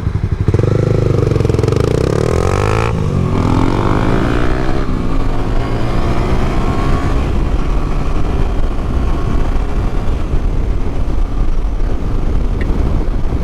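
Yamaha MT-07's parallel-twin engine accelerating under way. Its pitch rises through one gear, drops at an upshift about three seconds in, and climbs again before settling into steady riding.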